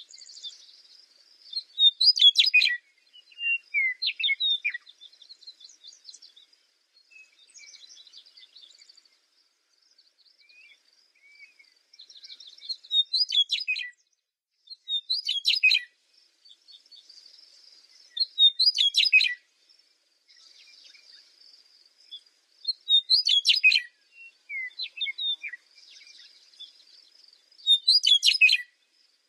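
Songbirds singing: a loud, short, high song phrase repeated every few seconds over softer, continuous twittering.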